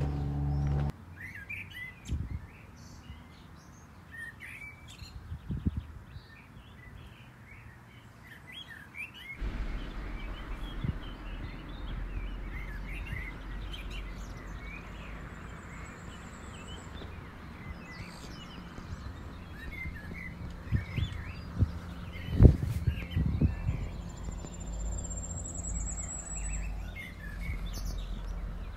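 Small songbirds chirping throughout, with a high thin trill heard twice. About a third of the way in, a low steady rumble starts beneath them. A few dull knocks come near the two-thirds mark, one of them the loudest sound.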